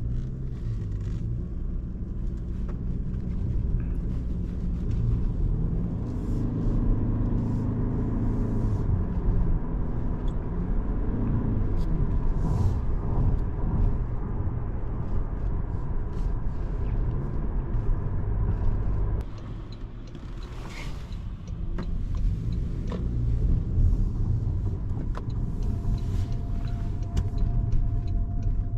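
2025 Toyota Camry hybrid on the move, heard from inside the cabin: a steady low rumble of road and drivetrain. It drops off briefly about two-thirds of the way through, then builds back up.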